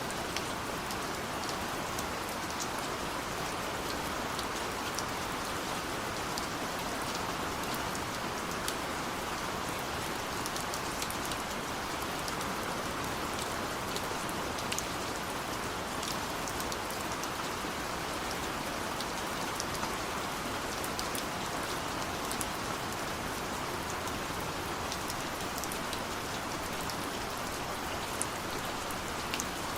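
Steady rainfall, a constant hiss with scattered sharp drops pattering on a surface.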